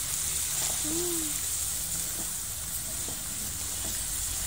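Rice and vermicelli sizzling in fat in a large aluminium pot over a gas burner: a steady hiss, with faint scrapes of a metal spoon stirring.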